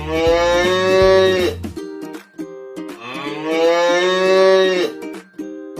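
A cow mooing twice, two long calls, over light plucked-string background music.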